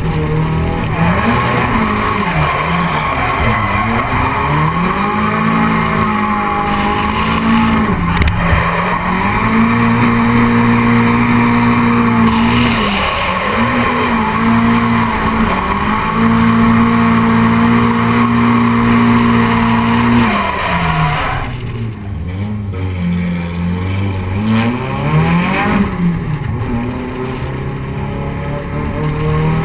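Nissan 240SX (S13) drift car's engine revving hard, held at high revs for several seconds at a time, easing off and climbing again, with tyres sliding and squealing as the car drifts.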